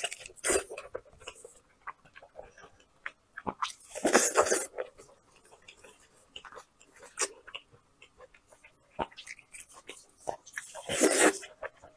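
Close-up eating sounds: a person biting into and chewing a braised sheep's ear, with many small wet clicks and smacks and two louder noisy bursts, one about four seconds in and one near the end.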